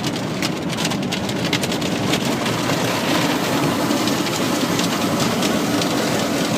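Automatic car wash spraying and pelting water onto the car, heard from inside the cabin: a loud, steady, rain-like hiss with dense patter on the body and glass.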